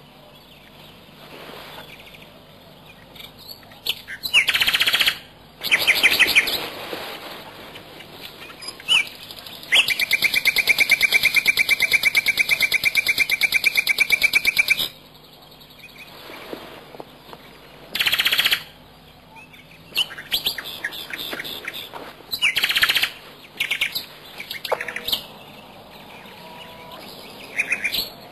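Bird calls: short bursts of rapid chirping every few seconds, with one long, fast trill of about five seconds in the middle.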